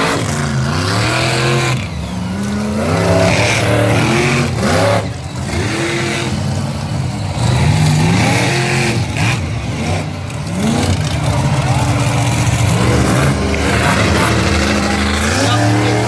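Monster truck engines revving over and over, the pitch climbing with each blip of the throttle and falling back.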